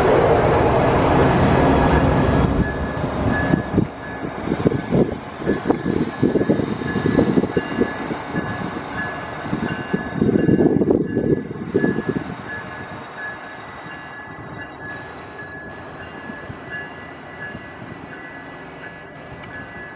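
Coaster commuter train moving away along the station track. Its wheels rumble loudly close by, then clatter irregularly over the rails. The sound fades after about twelve seconds as it recedes.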